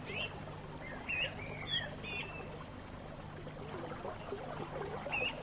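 Birds chirping: scattered short, high, bending calls, a few in quick succession about a second and a half to two seconds in and again near the end, over a faint steady outdoor background.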